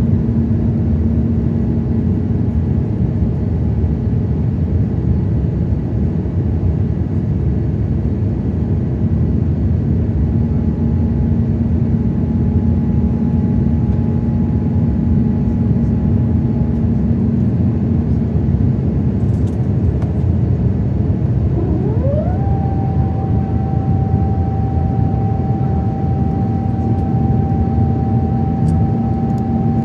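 Airbus A350-900 jet engines running in a steady, loud rumble with a held hum. About 22 seconds in, a higher tone rises quickly and then holds.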